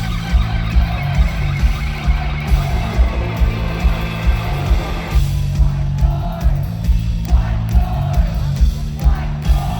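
Live rock band playing loud: electric guitar and a vocal over a steady, heavy drum beat.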